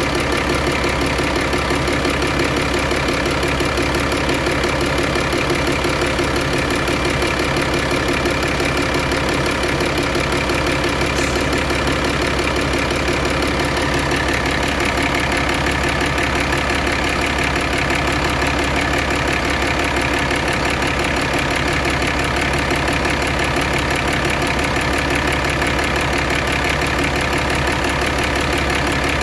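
Mitsubishi 6D22 inline-six diesel engine of a water pump machine running steadily at a constant speed.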